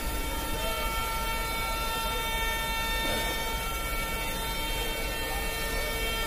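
Passenger train heard from the doorway of its coach: a steady low rumble under a steady high whine of several tones that holds without a break.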